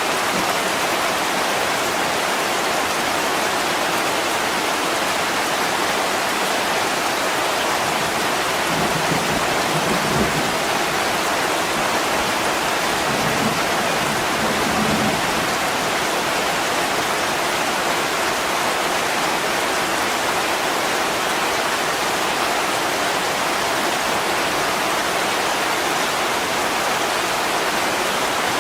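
Steady heavy rain pouring on a window, an even, unbroken hiss. A faint low rumble of distant thunder comes and goes from about a third to halfway through.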